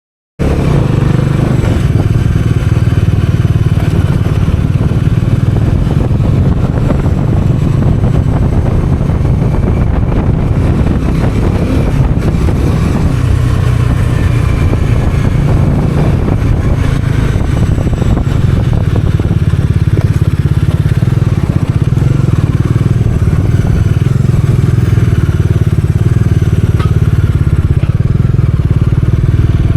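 Bajaj Dominar 400's single-cylinder engine running steadily, cutting in abruptly just after the start.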